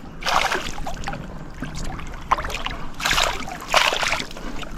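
Water splashing in several short bursts as a hooked spotted bass thrashes and shakes its head at the surface during the fight.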